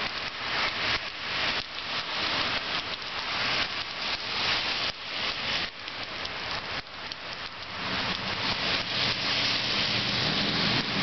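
Heavy rain pouring steadily on the ground, a dense even hiss. About eight seconds in, a low steady hum joins underneath.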